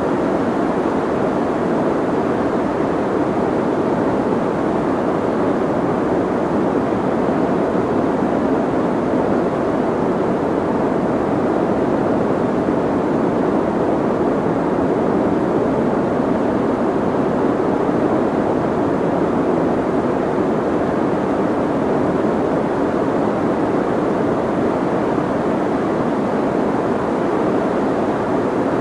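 Steady soft white noise, filtered so that most of it sits in the low and middle range with little high hiss, unchanging throughout.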